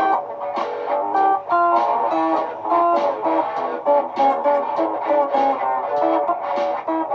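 Live-looped electric guitar: quick picked notes in several layered parts playing together.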